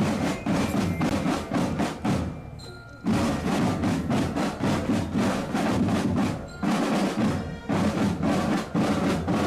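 Military marching band drum line playing fast, dense snare drum rolls and rhythms. The drumming breaks off briefly about two and a half seconds in, then resumes.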